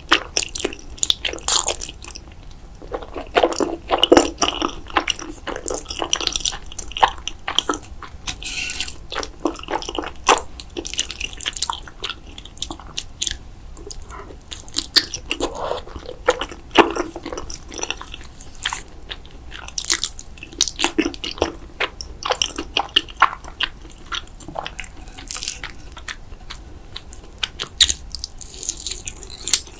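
Close-miked mouth sounds of a person eating: bites and wet chewing, an irregular run of sharp clicks and smacks.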